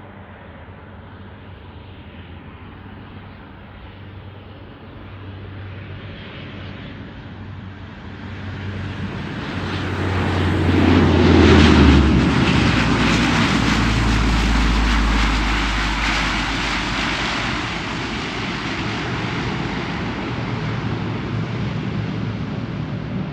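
A QantasLink airliner passes close by. Its engine drone builds to a peak about halfway through, with the low hum dropping sharply in pitch as it goes past, then stays loud and slowly fades as it moves away.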